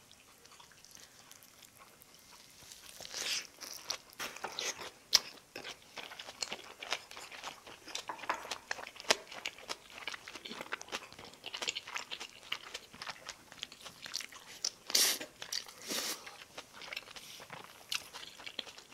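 Close-miked chewing and crunching of food in a person's mouth, with many short sharp clicks, starting about three seconds in after a quiet opening.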